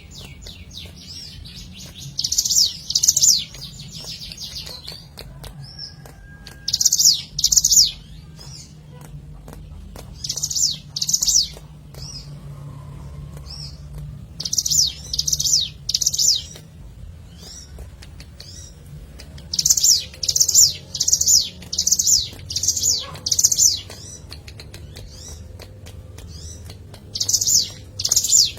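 Ciblek gunung (a prinia) singing in short bursts of fast, high chirping notes. The bursts come in runs of two to seven, a little over half a second apart, with pauses of a few seconds between runs.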